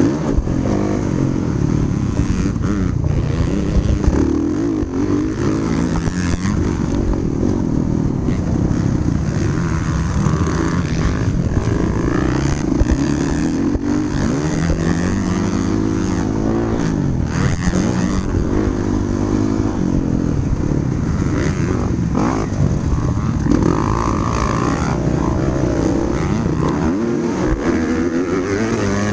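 Motocross dirt bike engine running hard, its pitch climbing and dropping again and again as the throttle is opened and closed.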